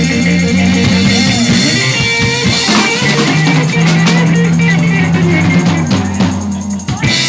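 Live band with electric guitar, bass and drum kit playing loudly, bringing the song to its ending; the music stops abruptly about seven seconds in.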